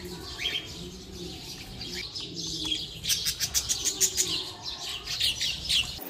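Aviary birds chirping: many quick, high chirps that come thick and fast from about halfway through.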